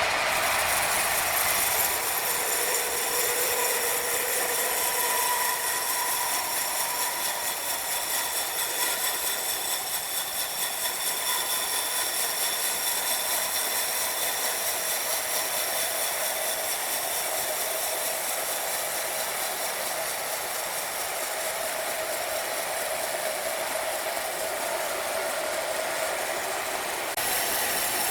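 Sawmill machinery running steadily: a continuous mechanical noise with a high hiss and several steady whining tones, changing character slightly about two seconds in and again near the end.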